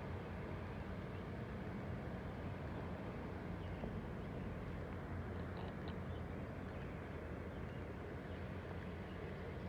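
Outdoor garden ambience: a steady low rumble with a few faint, short high chirps, the clearest about five and a half seconds in.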